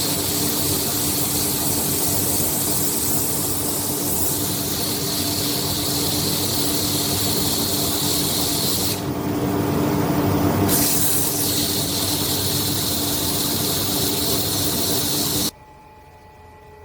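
A small electric power tool running steadily with a loud hiss over a constant motor hum. Its sound shifts briefly about nine seconds in, then cuts off suddenly near the end.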